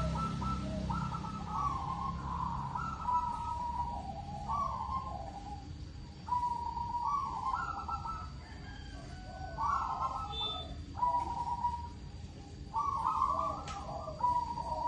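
Zebra dove (perkutut) cooing: repeated rolling, stepped coo phrases, each a second or two long, following one another with short pauses.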